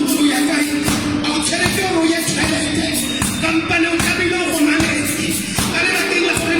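A gospel song sung by a group of voices over a regular drum beat.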